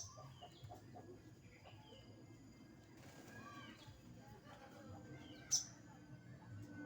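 Faint, scattered bird chirps, short curved notes, with one sharp click about five and a half seconds in.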